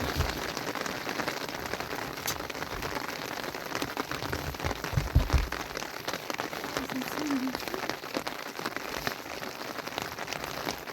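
Steady rain pattering on a surface, with many small drop clicks. A few low thumps come near the start and around five seconds in.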